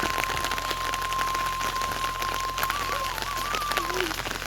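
Steady rain falling, a dense hiss full of small drop ticks. A thin high tone holds steady through most of it and wavers before fading out near the end.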